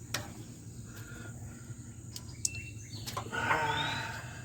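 A few sharp clicks of plastic wiring-harness clips being worked off. About three seconds in comes a short, pitched animal call, over a steady outdoor background hum.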